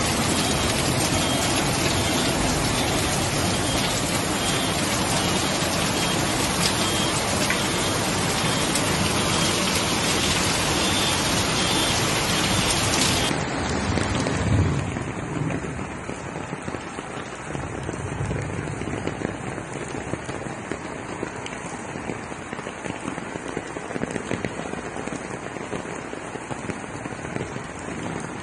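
Heavy rain pouring down, a steady hiss. About halfway through it changes abruptly to a quieter, duller rush of rain and floodwater, with a brief low thump just after the change.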